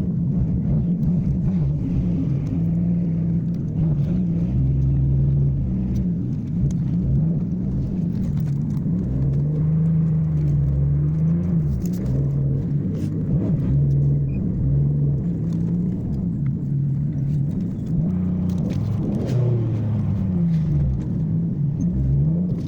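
Car engine running with its pitch rising and falling as the revs change, over a low rumble.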